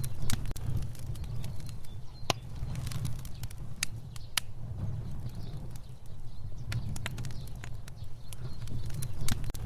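Fire burning: a steady low rumble of flames with sharp, irregular crackles and pops.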